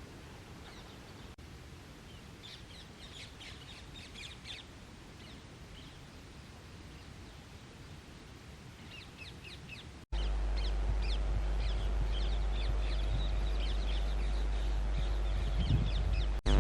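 Birds calling outdoors in quick runs of short, high, chattering calls, in two spells. About ten seconds in, a steady low rumble starts and lasts to the end.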